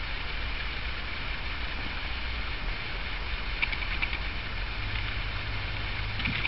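Steady outdoor background noise with a low rumble underneath and a few faint, soft ticks.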